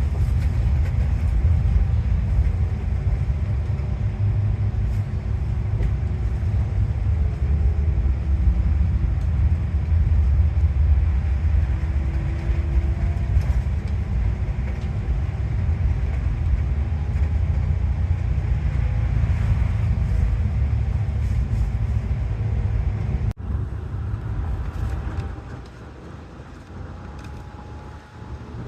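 Tateyama Highland bus driving: a steady low engine and road rumble with faint whining tones that rise and fall. About 23 seconds in the sound breaks off abruptly and continues at a noticeably lower level.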